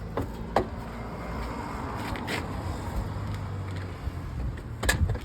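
Handling noise of a portable water pump being put into the back of a truck: scuffing, with a sharp knock about half a second in and another near the end, over a steady low hum.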